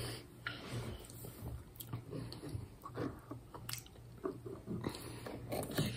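A person chewing food with the mouth closed: faint, irregular small smacks and clicks, over a low steady hum.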